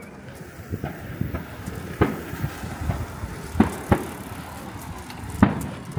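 Fireworks going off: four loud shell bursts, about two, three and a half, four and five and a half seconds in, with smaller pops between them.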